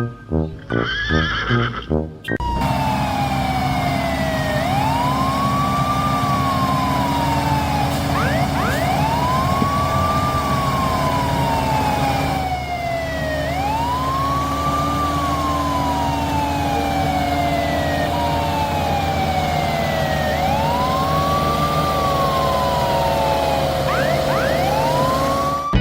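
Emergency siren wailing: a tone that rises quickly and then falls slowly, repeating about every four seconds, with a second siren overlapping it over a steady low hum. It begins about two seconds in, after a few short neigh-like calls.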